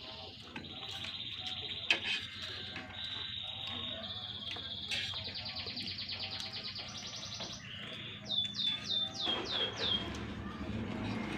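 A songbird singing: long, fast high trills on several pitches, then a quick run of six or seven falling whistled notes near the end.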